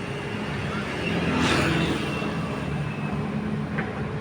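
A heavy engine running steadily, with a brief rushing hiss swelling and fading about a second and a half in.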